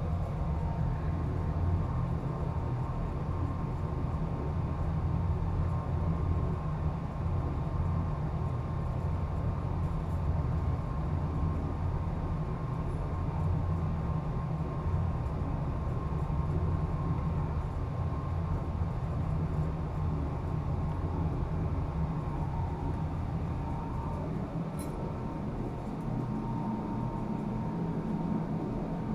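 Steady low machinery drone with a faint steady whine above it, running without a break.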